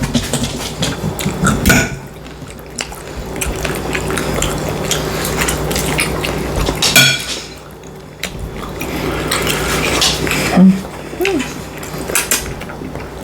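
Cutlery clinking, knocking and scraping against a plate at irregular intervals while a breakfast of sausage, eggs and bacon is eaten close to the microphone, the sharpest knocks about two, seven and eleven seconds in.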